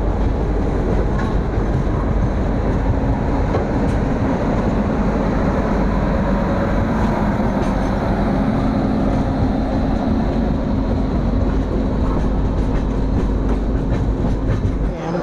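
Express passenger train running at speed, heard from on board: a steady rumble of the coach's wheels on the track, with a faint clatter and a steady low hum.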